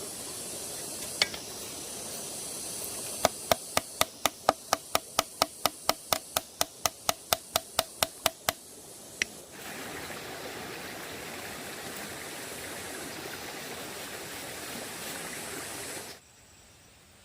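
A fast, even run of about two dozen hammer blows, roughly four to five a second, each with a short ring. It is followed by a steady rushing noise that cuts off suddenly near the end.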